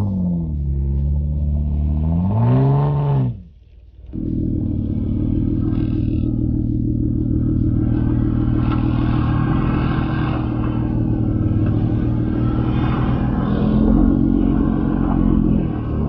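Jeep engine on an off-road trail: the revs fall and then rise again, the sound drops away briefly about three and a half seconds in, and then the engine runs at a steady pitch.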